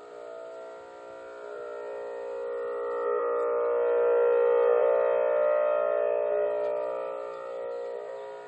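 The so-called strange sound in the sky: a drawn-out drone of many steady tones sounding together. It swells louder over a few seconds in the middle, then eases back.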